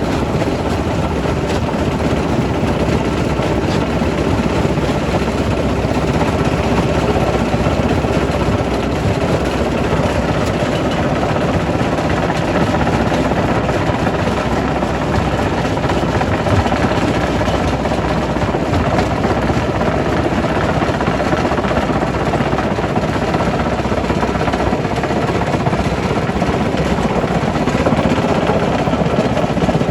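Quarry primary rock crusher running, a loud, steady heavy machinery din.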